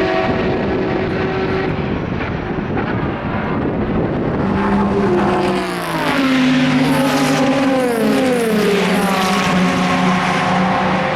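Racing car engines going past on a circuit, their pitch gliding down as they pass around the middle, then settling into a steady engine note.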